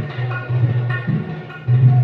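Dholki (Indian two-headed barrel drum) played solo: low ringing strokes on the bass head with sharper strikes on the treble head, in a steady rhythm.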